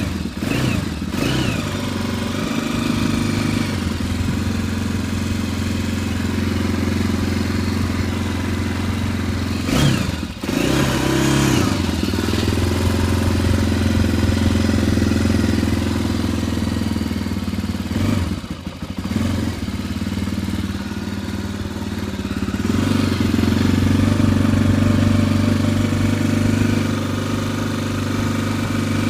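2002 Honda XR400R's single-cylinder four-stroke dirt-bike engine running just after a cold start, idling steadily with a few brief throttle blips that rise and fall in pitch: near the start, about ten seconds in and again near the middle.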